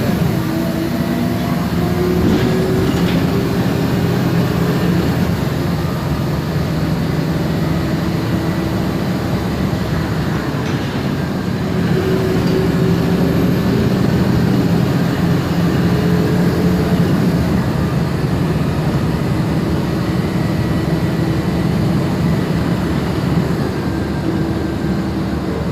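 MAN Lion's Classic city bus under way: its MAN E2876 CNG engine and ZF Ecomat six-speed automatic gearbox run steadily, with a whining tone that climbs in pitch several times.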